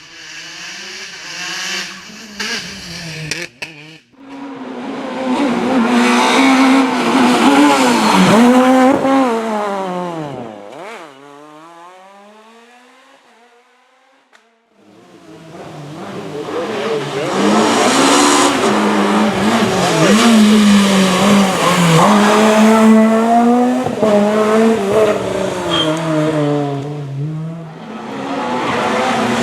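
Rally cars at full race pace going past one after another. Their engines rev hard and shift up and down through the gears, and the pitch drops as each car passes. There is a short lull in the middle before the next car arrives.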